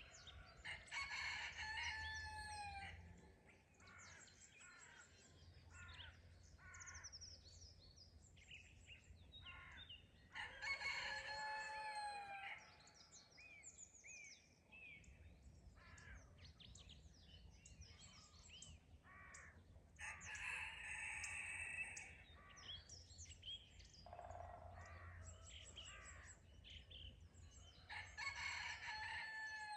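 A rooster crows four times, about every nine seconds, each crow lasting about two seconds and ending on a falling note. Small songbirds chirp between the crows.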